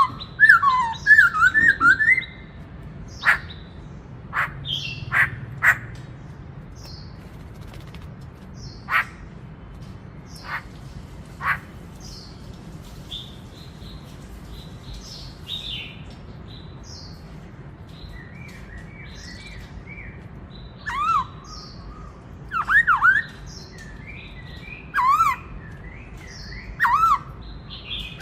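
Black-throated laughingthrush singing: short whistled notes mixed with sharp clicks early on, a quieter stretch, then loud whistled phrases repeated about every two seconds near the end.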